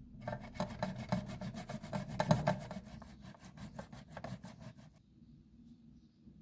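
Food being grated on a hand grater: rapid rasping strokes, about four a second, that stop about five seconds in.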